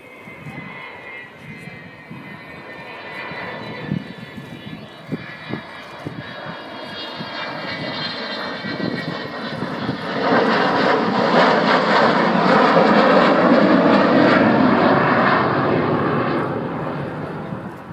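Avro Vulcan B2 XH558's four Rolls-Royce Olympus turbojets on a display pass, with whining tones sliding down in pitch over the first few seconds. The jet noise builds to a loud rumble about ten seconds in, holds for several seconds, then fades near the end.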